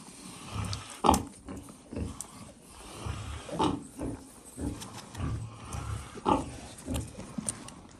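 Pigs grunting at feeding time, with three louder calls spaced about two and a half seconds apart.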